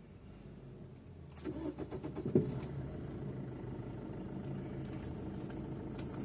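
Maruti Suzuki Swift Dzire engine cranked and started about a second and a half in, catching with a sharp burst, then settling into a steady idle on its newly replaced engine mount.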